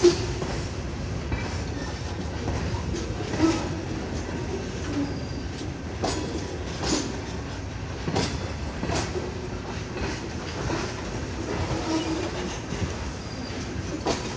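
Freight cars rolling past: a steady rumble of steel wheels on rail with clickety-clack and irregular sharp clanks, the loudest clank right at the start.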